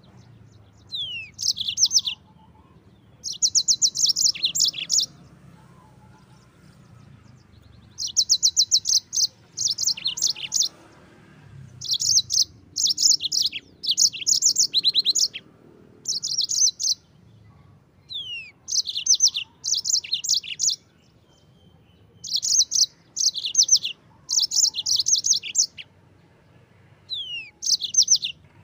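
Yellow-fronted canary (Mozambique canary) singing in energetic bursts of fast rolling trills, high-pitched, each phrase about one to two seconds long with short pauses between and an occasional down-slurred whistle. A faint low hum sits underneath.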